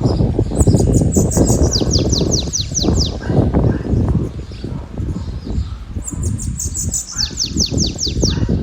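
Wind buffeting the microphone with a low rumble, while a small songbird sings two phrases. Each phrase is a run of about eight high notes sweeping downward, the first starting about half a second in and the second around six seconds in.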